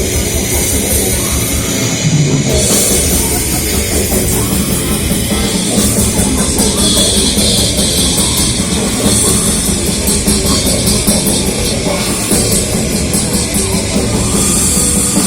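Heavy metal band playing live, with rapid kick-drum beats under a wash of cymbals.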